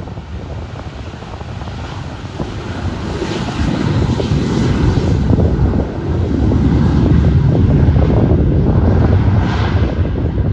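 Airplane engines rumbling as an aircraft passes, the sound building and loudest for a few seconds in the second half.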